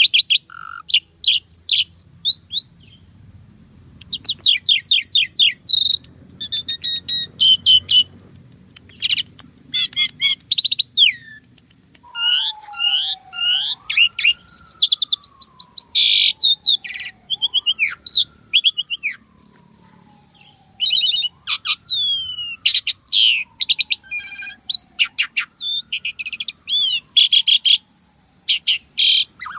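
Pied starling (jalak suren) singing energetically: a busy, varied song of rapid high chattering and whistled notes, with a short lull a few seconds in. From about the middle, a slow whistle that falls in pitch repeats five times under the chatter.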